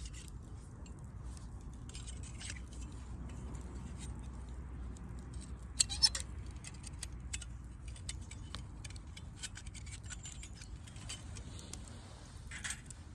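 Firewood burning in a fire pit, crackling with scattered small snaps and two sharp pops about six seconds in, over a low steady rumble.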